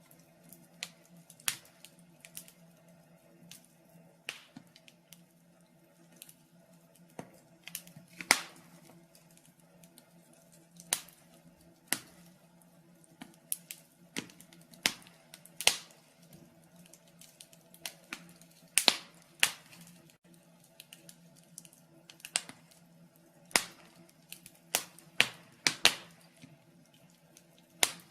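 Wood fire crackling in a fireplace: irregular sharp pops and snaps, a few loud ones among many faint, over a faint steady low hum.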